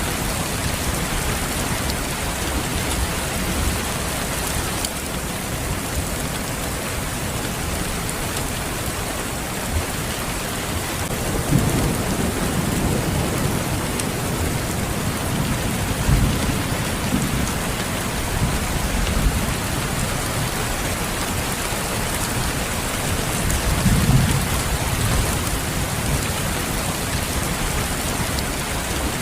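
Steady rain, an even hiss with no gaps, with a few low rumbles swelling under it about twelve seconds in, again about sixteen seconds in, and once more near the end.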